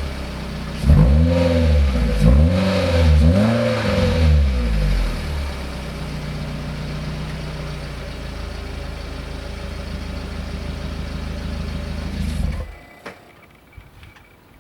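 Subaru R1's 660 cc four-cylinder engine, fully warmed up and fitted with a STYLE-BAY FIGHTER002 aftermarket muffler: three quick revs from idle in the first few seconds, then a steady idle, then the engine is switched off about twelve seconds in. The exhaust is so quiet that mostly engine noise is heard.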